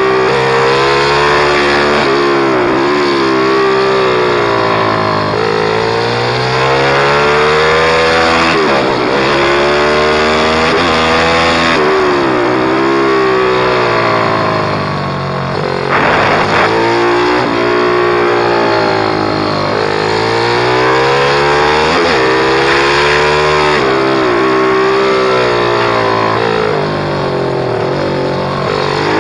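Pit bike engine at high revs, its pitch repeatedly climbing and dropping every couple of seconds as the rider works the throttle and gears, with a short burst of noise about sixteen seconds in.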